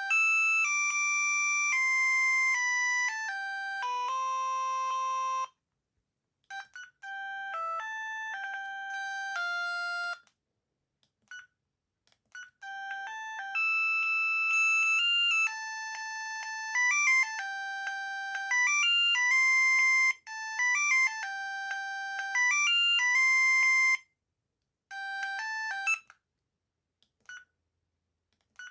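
Built-in ringtone melodies of an Amstrad S288 (Bird S288) mobile phone playing through its small speaker, several electronic tunes previewed one after another. Each tune cuts off abruptly, with short silences between them.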